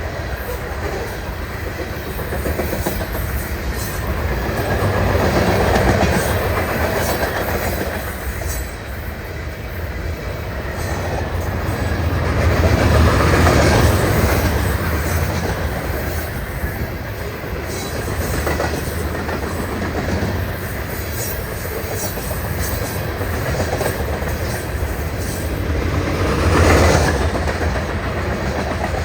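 Union Pacific grain train's covered hopper cars rolling past, wheels clacking over the rail joints over a steady rumble. The rumble swells louder three times.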